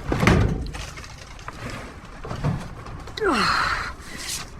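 A man's effortful breathing while lifting a heavy item, with a low knock just after the start and a falling, strained groan about three seconds in.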